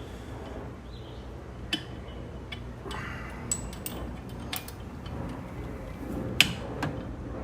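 A few light, separate metallic clicks and taps from handling the brass acetylene regulator and its fittings while pressuring it up, the sharpest about six seconds in, over a steady low hum.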